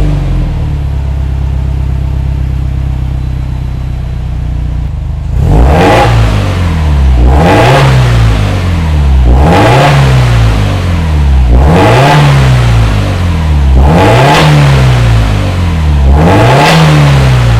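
Subaru WRX STI's turbocharged boxer four through a Fujitsubo Authorize RM aftermarket muffler, idling steadily for about five seconds, then free-revved in six quick blips about two seconds apart, each rising and falling back to idle.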